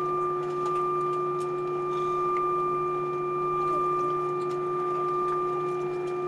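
Steady whine and hum of a parked Airbus A320's onboard systems heard inside the cabin, several constant tones held without change, with a few faint clicks.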